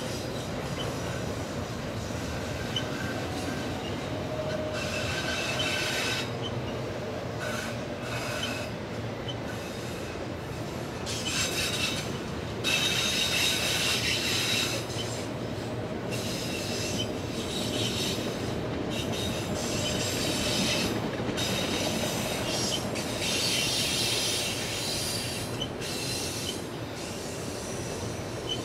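Autorack freight train rolling past with a steady rumble of cars on the rails, its wheels squealing in high screeches that flare up and fade every couple of seconds.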